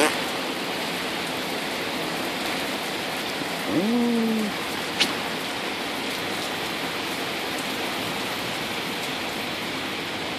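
Steady rain falling, an even hiss. About four seconds in there is a short low hum, and a sharp click a moment later.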